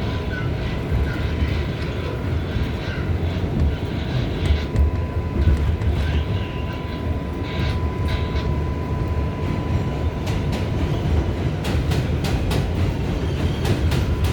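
R188 subway train running between stations: a steady low rumble of wheels on track, with a thin steady whine that fades out about eleven seconds in. A quick run of sharp clicks follows near the end.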